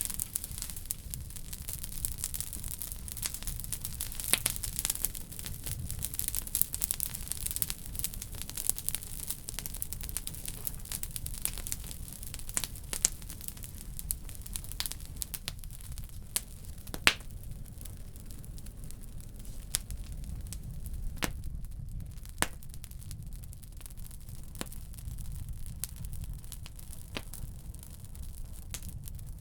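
Wood fire burning in a wood stove: crackling and popping over a steady low rumble. The pops come thick in the first half and thin out later, with one sharp pop about halfway through.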